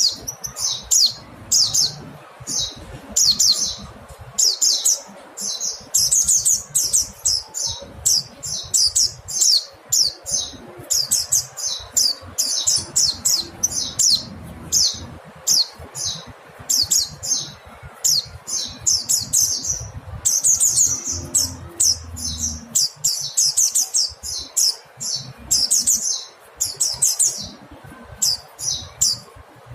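Mountain white-eye (Zosterops montanus) calling: quick clusters of short, high chirps, repeated over and over with only brief gaps.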